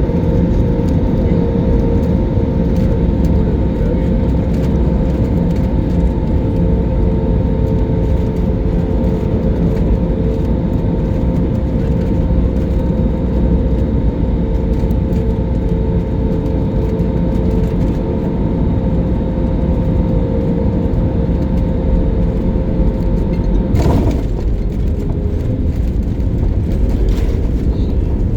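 Steady loud drone of an airliner's engines heard from inside the cabin during the landing approach, two steady tones over a deep rumble. About 24 seconds in there is a brief thud, after which the tones sit slightly lower.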